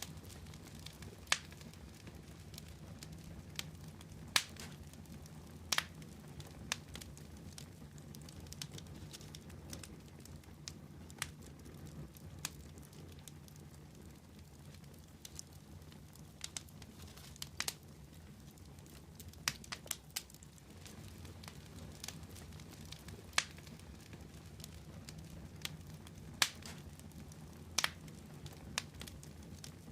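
Fire crackling: irregular sharp pops and snaps, a handful of them louder than the rest, over a steady low rumble.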